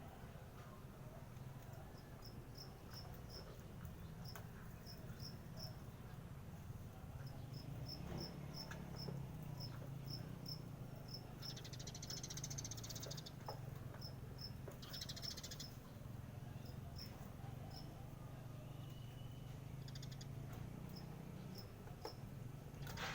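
A cricket chirping faintly in short, evenly repeated high chirps, with a few longer buzzy trills. A steady low hum lies underneath.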